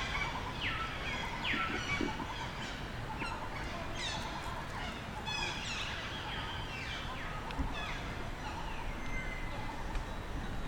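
Monkeys calling: many short, high-pitched calls, each falling in pitch, overlapping one another over a steady background hiss.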